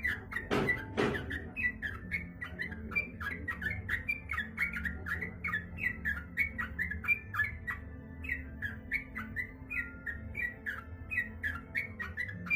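Yellow-vented bulbul (trucukan) singing freely, a fast, unbroken string of short chirping notes. Two sharp knocks come about half a second to a second in.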